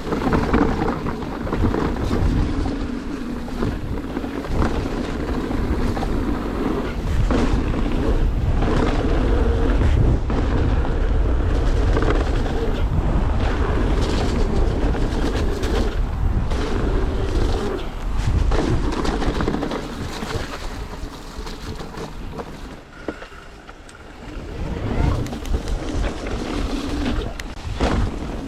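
Mountain bike descending a wet downhill trail: wind buffeting the microphone and tyres rumbling over the ground. Wet disc brakes howl in wavering tones through much of the run, fading out briefly near the end.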